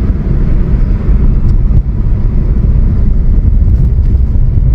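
SUV driving down a rough, steep dirt road: a steady low rumble of tyres and engine.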